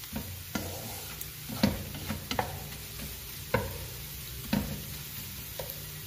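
Onions, ginger-garlic paste and whole spices sizzling in hot oil in a wok while a wooden spatula stirs them, knocking and scraping against the pan about once a second.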